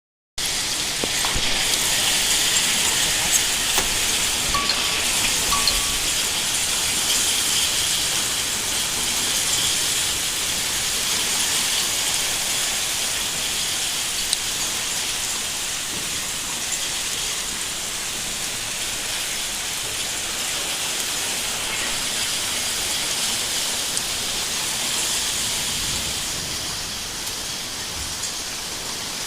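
Heavy rain pouring down in a steady, loud hiss, easing slightly near the end.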